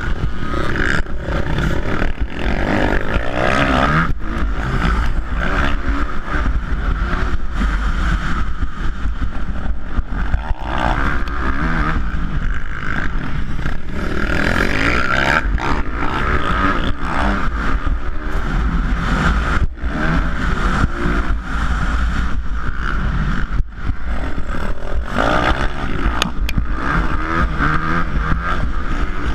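Four-stroke 450cc motocross bikes racing, engines revving hard with brief throttle chops every few seconds, over a steady low rumble of wind on the microphone.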